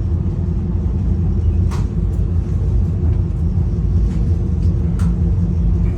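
Steady low rumble of a passenger rail car rolling along the track, heard from inside the car, with two sharp clicks, one about two seconds in and one near the end.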